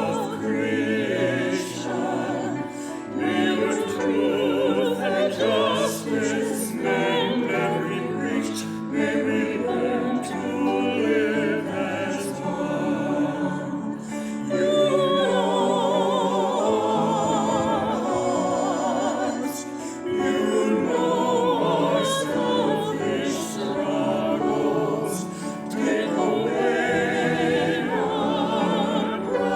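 Music: a slow sung prayer for peace, singing with a wide vibrato, in a classical church style.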